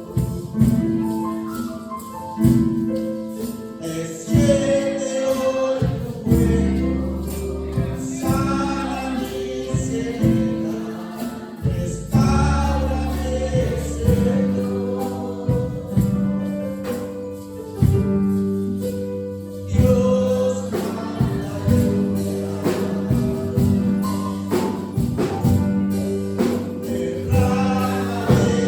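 Spanish-language gospel worship music with tambourine over a steady beat and a sustained bass, a lead melody carrying a passage without clear sung words.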